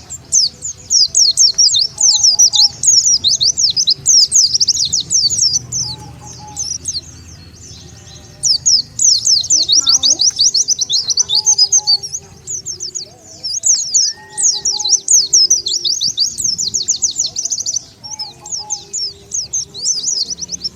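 Pleci (white-eye) song used as a lure call: rapid trains of high, thin chirping notes, with a short lull about seven seconds in.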